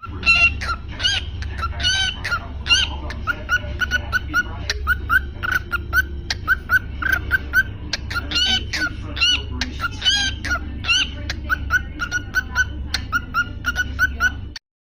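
Cockatiel singing: a fast string of short whistled chirps, several a second, broken by louder warbling calls that rise and fall. It stops abruptly near the end.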